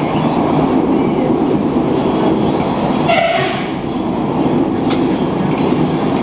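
Interior noise of a passenger train running on the line: a steady rumble of the carriage on the rails. About three seconds in there is a brief higher-pitched sound.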